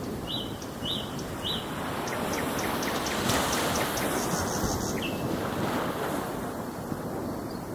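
Ocean waves washing ashore in a steady rush that swells slightly midway, with three short high chirps in the first couple of seconds and a quick run of faint high ticks in the middle.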